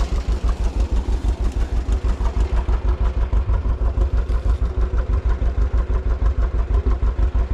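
Tractor engine running steadily with an even, heavy low beat of about seven pulses a second.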